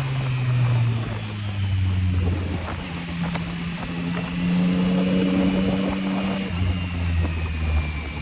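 Yamaha MT-09's three-cylinder engine under way, its note stepping down, up and down again as the rider works the throttle and gears, over wind rush.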